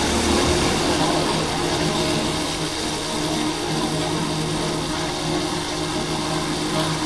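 Yamaha Crosser 150's single-cylinder engine running at a steady speed on the move, with an even buzz over a steady background hiss.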